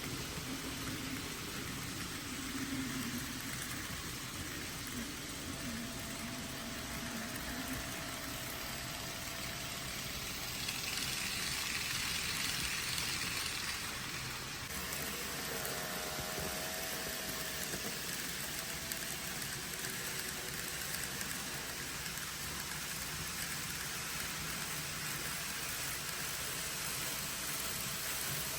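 Railway train running, a steady rushing noise with faint wavering tones and a brighter hiss for a few seconds about eleven seconds in.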